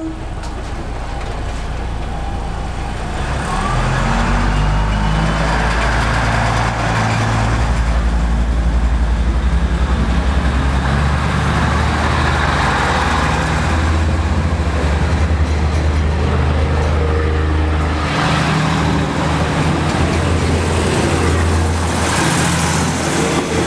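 SRT diesel railcar passing slowly at close range: steady low engine drone with wheel and running noise, getting louder over the first few seconds.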